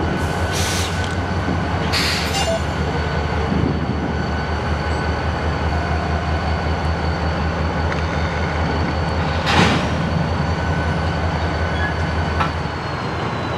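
Diesel-electric freight locomotive running with a steady low rumble during switching moves, with three short bursts of hiss, two near the start and one past the middle.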